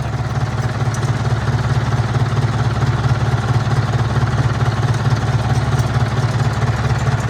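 Heavy engine idling steadily, with an even low pulse and no change in speed.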